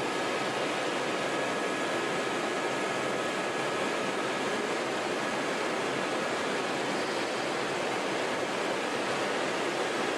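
Helicopter in flight: an even, steady rushing noise with a faint, steady high whine above it.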